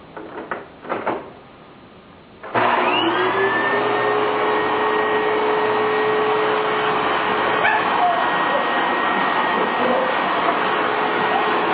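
Vacuum cleaner switched on about two and a half seconds in: its motor whines up to speed, then runs steadily and loudly. A few short faint sounds come before it.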